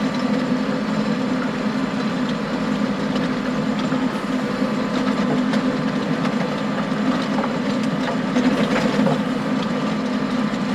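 John Deere tractor engine running steadily under load while driving a power harrow, with scattered clacks of stones striking the harrow tines.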